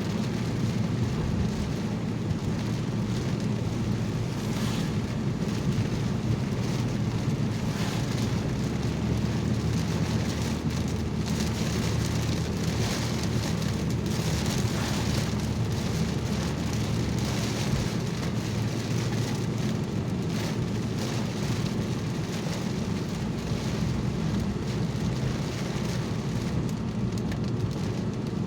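Rain falling on a car's roof and windshield, heard inside the moving car's cabin over steady engine and road noise.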